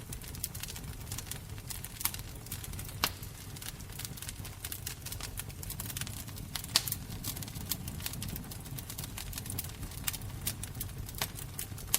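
Fire crackling, with a steady low rumble under a constant scatter of irregular sharp crackles and a few louder pops, about three and seven seconds in.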